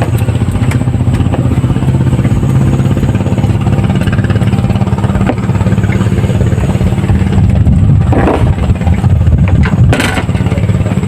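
An engine running steadily and close, with short rattling noises about eight and ten seconds in.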